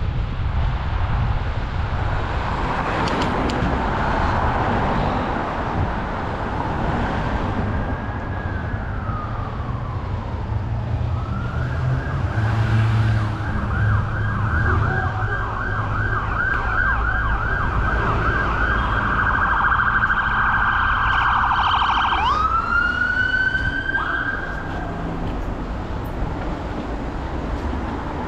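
Emergency vehicle siren: a slow falling wail, then a fast warbling yelp for about ten seconds, then a rising wail that stops a few seconds before the end.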